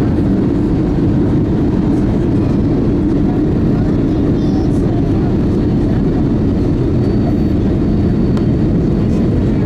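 Steady cabin noise of an Airbus A320neo during its landing sequence: engine and airflow rush, heaviest in the low range and unchanging in level.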